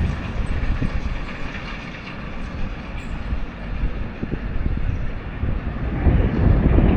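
Train passing: a continuous rumble with irregular knocks, getting louder near the end.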